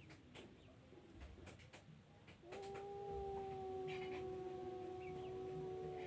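A cat gives one long, steady, drawn-out yowl that starts about two and a half seconds in, its pitch sinking slightly as it goes on. A few faint clicks come before it.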